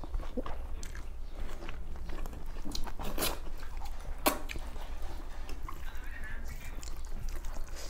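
Close-miked chewing and biting of people eating rice and pork curry by hand, with scattered wet clicks and a couple of sharper crunches about three and four seconds in, over a low steady hum.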